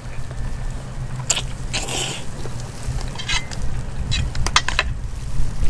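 A person eating jjajangmyeon noodles: a series of short wet chewing and mouth smacks, with a longer noisy burst about two seconds in. A steady low wind rumble on the microphone runs underneath.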